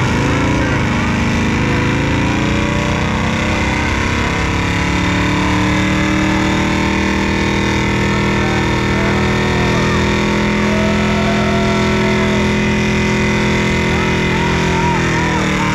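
Car engine running at a steadily held speed, its pitch rising slightly at the start and easing off near the end.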